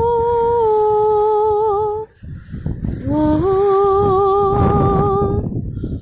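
A woman humming long, held notes in two phrases, each sliding up into a steady tone, with a short break about two seconds in. A steady low rushing noise runs underneath.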